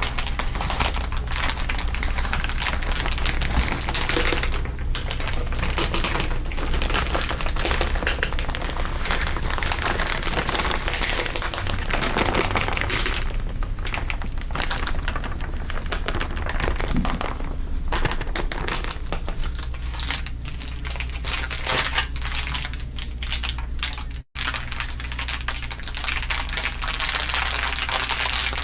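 Layered crinkling of crinkly material, a dense continuous crackle of many small clicks, over a steady low hum. The sound drops out for an instant about three quarters of the way through.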